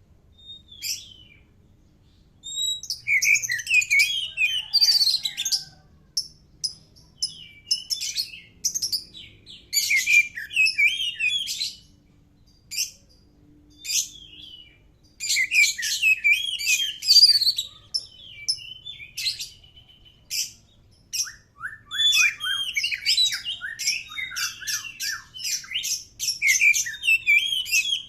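Oriental magpie-robin (kacer) singing: bouts of rapid, varied high notes and sweeping phrases, broken by short pauses of a second or two.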